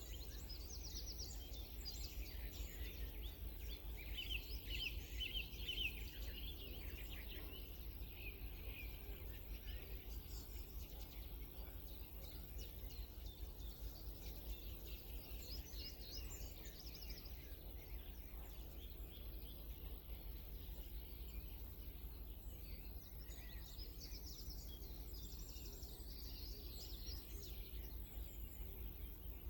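Wild songbirds chirping and singing, several short calls and trills overlapping, thicker in patches, over a steady low rumble.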